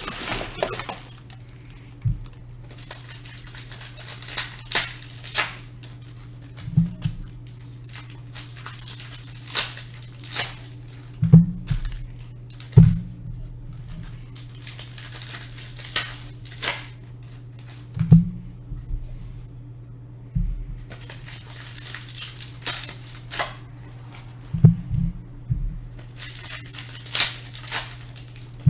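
Trading cards being handled on a table: scattered short swishes and light taps as cards are slid and set down, over a steady low hum.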